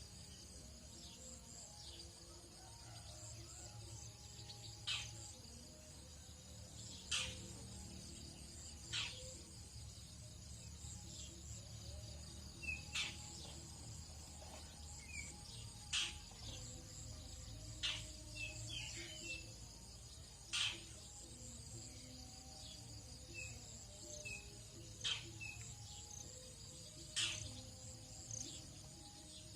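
Tropical dawn ambience: a steady high drone of insects, cut by short sharp calls every couple of seconds and scattered small bird chirps, over a faint low rumble.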